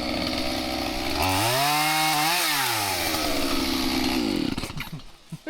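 Chainsaw engine running, revved up to a peak and then let back down. It falls away near the end.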